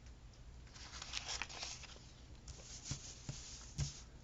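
Faint rustling and a few light taps of thin paper stickers being handled and placed on a planner page.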